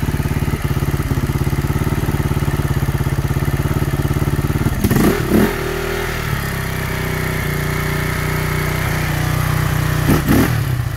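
KTM enduro motorcycle engine idling steadily with an even beat, given two short throttle revs, one about halfway through and one near the end, as the bike is pushed through deep mud.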